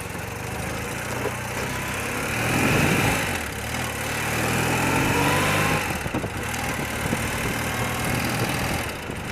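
Thirty-year-old BMW motorcycle engine running under way, its pitch rising twice as it accelerates and dropping back about six seconds in, as at a gear change.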